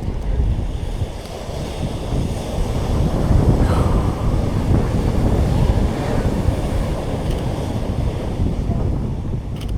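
Strong wind buffeting the microphone over the steady rush of ocean surf breaking on the beach.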